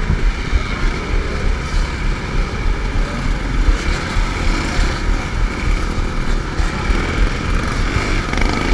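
2011 Suzuki RM-Z 250 four-stroke single-cylinder motocross engine running under load at fairly steady revs, heard from the bike's onboard camera, over a heavy irregular low rumble of wind and ground jolts on the microphone.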